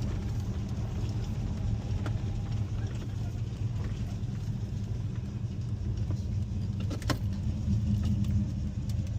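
A car engine running steadily with a low, even hum, and a sharp click about seven seconds in.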